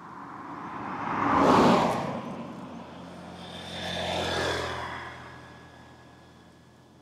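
Two road vehicles passing close by, one after the other: the first, the loudest, sweeps past about a second and a half in, and the second, with a steady engine drone, passes about four seconds in.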